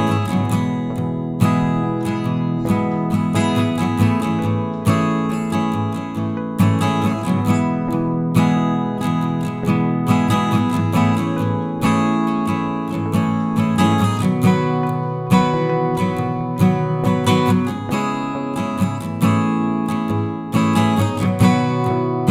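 Background music: acoustic guitar playing, strummed and plucked notes with a steady pulse.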